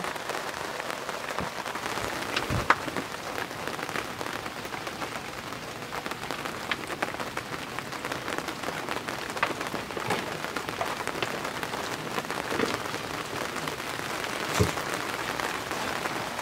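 Steady rain falling on the boat and the canal, with many small drop ticks. Two louder knocks, one about three seconds in and one near the end.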